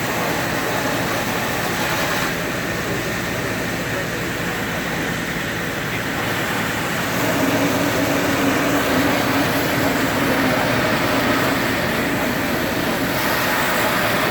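Diesel engine of heavy demolition machinery running steadily, its drone growing louder about seven seconds in.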